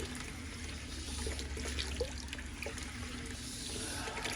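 Water running through a car radiator and draining out as it is flushed of old coolant and gunk.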